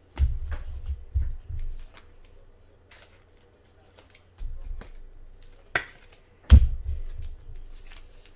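Trading cards and packs being handled on a table: a scatter of sharp snaps and clicks as cards are flicked and shuffled, with dull low thumps under several of them. The loudest snap and thump come about six and a half seconds in.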